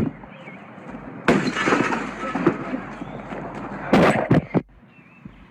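A sudden crash about a second in, a clattering, breaking-like noise that trails off over a second or two, then a few sharp knocks near four seconds.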